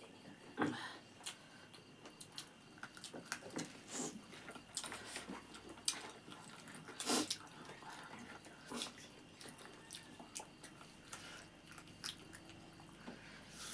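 Two people eating rice and chicken curry with their hands: irregular chewing and lip-smacking clicks, with a few louder smacks about a second in and again about seven seconds in.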